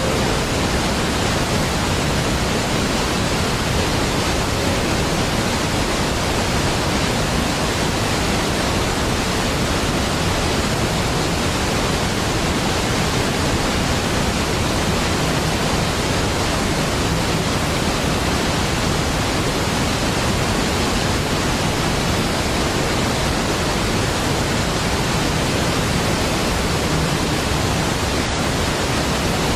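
A large waterfall's falling water: a steady, dense rush with no breaks or changes.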